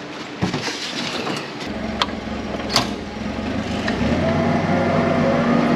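An engine running steadily, getting louder and fuller about four seconds in, with a couple of sharp clicks about two and three seconds in.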